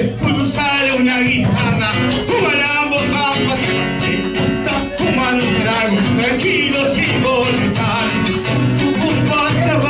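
Argentine folk song played: singing over acoustic guitar accompaniment.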